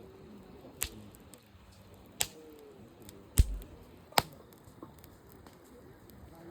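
Campfire wood popping and cracking: four sharp pops at uneven gaps. The loudest comes just past halfway and has a dull thump under it, with faint small ticks between the pops.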